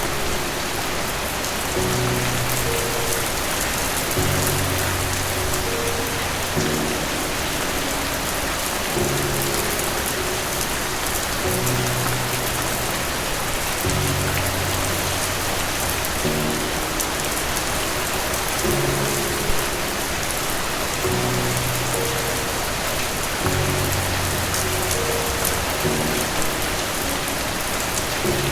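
Steady rain, an even dense hiss of many drops, over soft low music chords that change every couple of seconds.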